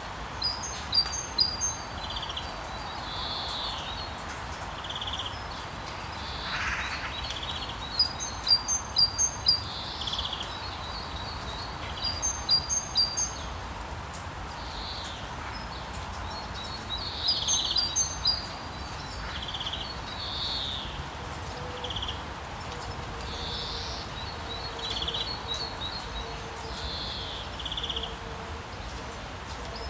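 Rainforest ambience: birds calling over a steady background hiss, with a bird repeating a quick series of high chirps every few seconds and other birds giving scattered single notes. A faint steady low hum joins in about two-thirds of the way through.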